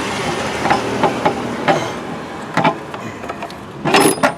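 Clicks, knocks and a short clatter of engine parts and hand tools being handled during ignition-coil work, with a louder cluster of knocks near the end.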